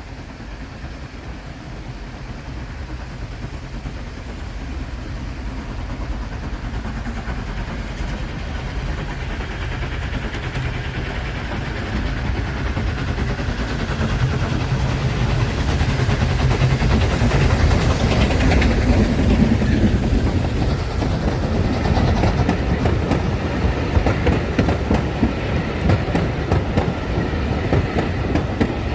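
A train approaching and passing, growing steadily louder to a peak a little past halfway. Near the end its wheels clatter over the rail joints in quick irregular clicks.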